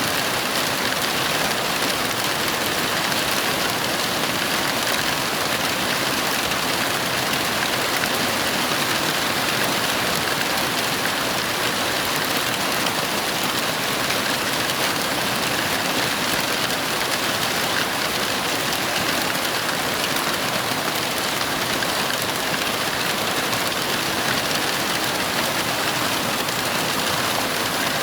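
Heavy rain falling in a steady, unbroken downpour, with no thunder or other distinct events.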